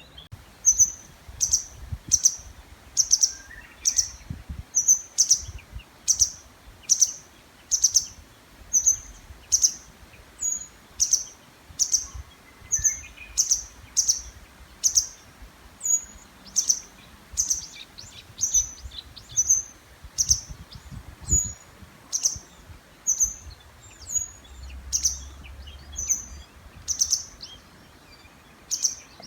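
A small songbird repeating one short, high, sharp call over and over, roughly one and a half times a second, with fainter birdsong in the background.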